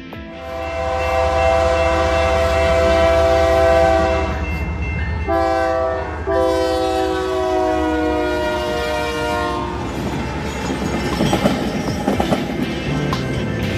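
A BNSF freight locomotive's air horn sounds three blasts, long, short and long. The wheels then clatter and click over the rail joints as the train rolls past.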